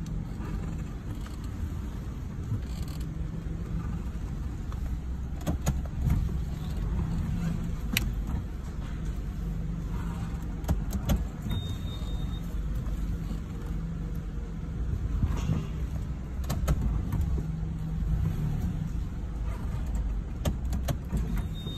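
2009 third-generation Toyota RAV4 driving slowly down a ramp with a steady low rumble, over which come irregular sharp clicking or creaking sounds (a "kia kia" noise) that the owner finds clearest when turning.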